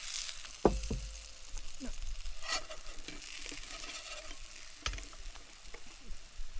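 Banana-egg pancake sizzling in a frying pan, a steady hiss, with a few sharp knocks, the loudest about half a second in.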